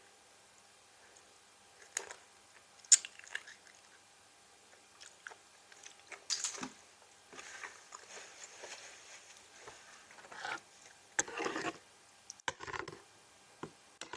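A person biting and chewing crunchy food close to the microphone. Two sharp crunches come about a second apart, the second the loudest, followed by several short bouts of chewing.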